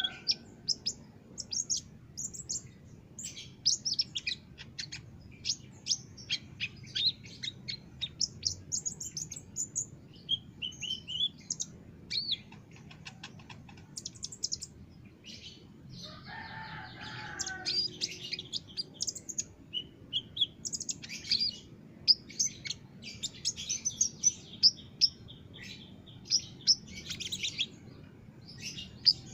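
Kolibri ninja (konin) sunbird singing hard: rapid runs of thin, high chirps and trills, with a short lower-pitched call about halfway through.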